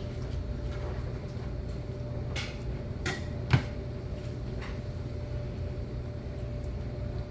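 Steady low mechanical hum with a faint steady tone over it, and a few short knocks from household handling, the loudest a sharp knock about three and a half seconds in.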